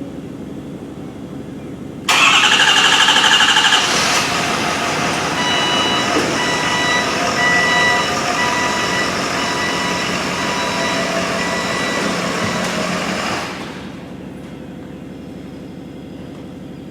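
Ford 6.7-litre diesel truck engine cranked on the starter about two seconds in, firing up and running, then dying away about eleven seconds later.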